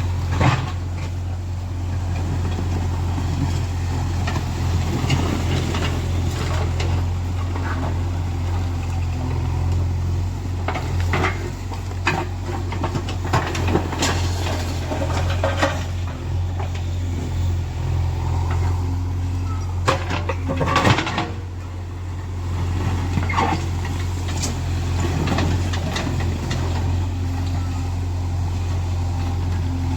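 JCB 3DX backhoe loader's diesel engine running steadily under work, a constant low hum, with occasional sharp knocks from the machine working.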